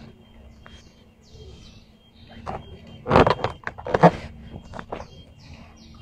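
Small birds chirping now and then, broken by a few loud, sudden noises about halfway through.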